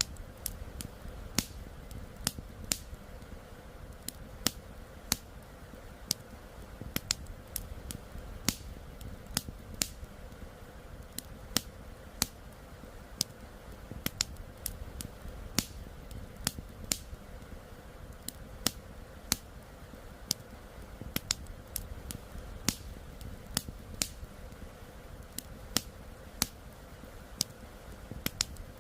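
Wood campfire crackling, with sharp irregular pops about one or two a second, over a steady low rush of flowing river water.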